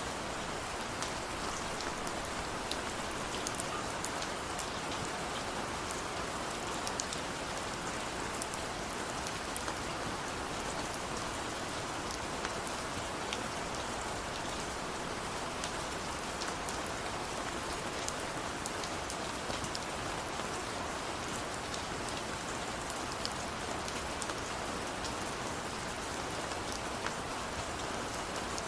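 Steady rain falling, a constant even hiss with many small drop ticks scattered through it.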